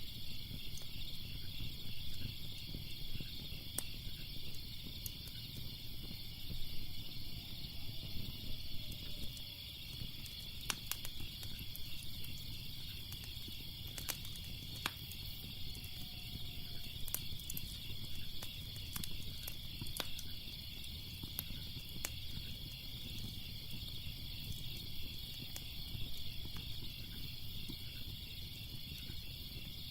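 Crackling fire: scattered sharp pops and snaps over a low rumble, with a steady high pulsing chirr behind it.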